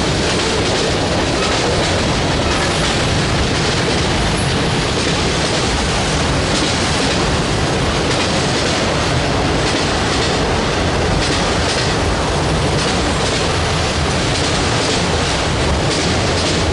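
Freight train cars rolling past, a loud steady rumble of steel wheels on rail with scattered clicks as the wheels cross rail joints.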